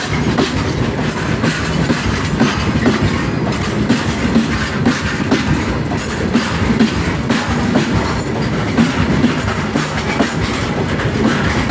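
Loaded open coal wagons of a goods train rolling past, loud and steady. The wheels rumble and clatter on the rails with frequent short knocks.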